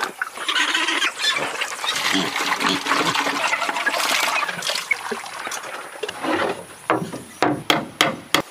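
A dense jumble of sounds, with some voice-like sounds among them, fills most of the time. Near the end come about five sharp knocks in quick succession: hammer blows.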